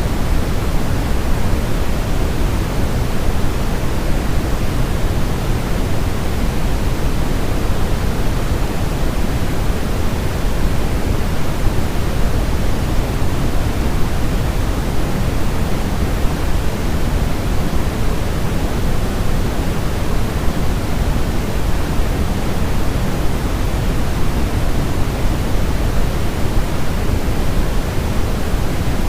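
Steady, unchanging synthetic noise of a baby-sleep white noise track, an even hiss weighted toward the deep end, closer to pink noise than flat white noise.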